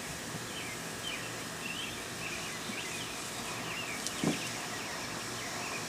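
Birds chirping in quick, repeated short calls over a steady outdoor background hiss, with one brief low sound about four seconds in.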